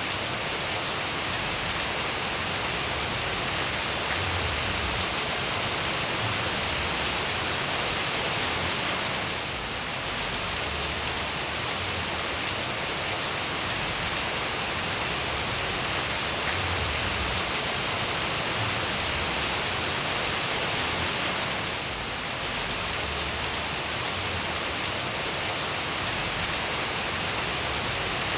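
Steady rain falling, an even hiss of drops without distinct pattering, briefly dipping in level twice, about a third of the way in and again near three quarters through.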